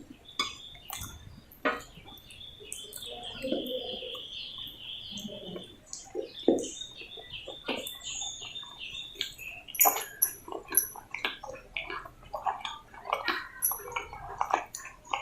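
Close-up chewing and mouth sounds of someone eating roti with potato sabzi: irregular wet smacks and sharp clicks. A high, thin chirping tone goes on in the background for much of the time, then fades out.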